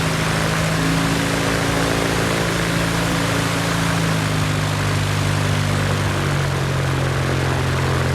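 Aerosport-built four-cylinder aircraft engine of a DR107 One Design aerobatic plane running steadily, propeller turning, on its first start.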